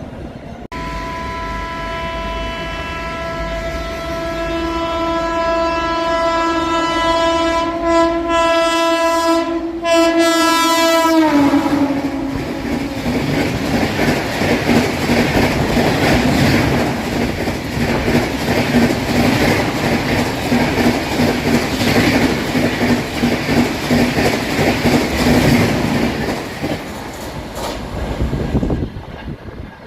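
Indian express train passing at high speed. Its horn is held for about ten seconds, with two short breaks, then drops in pitch as the locomotive goes by. The long rush and clickety-clack of the coaches follow, fading near the end.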